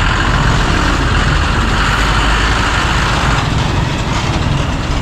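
Diesel engine of an Eicher Terra 16 truck running as the truck drives off, a steady low rumble with road and engine noise.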